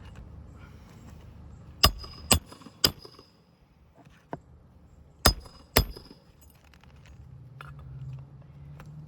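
Hammer driving roofing nails into an asphalt shingle: three sharp blows about half a second apart, then two more a few seconds later, each with a short metallic ring.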